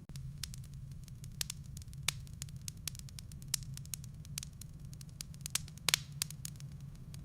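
Wood fire burning in a fireplace: irregular sharp pops and snaps of firewood over a steady low rumble. The loudest cracks come about two seconds in and again near six seconds.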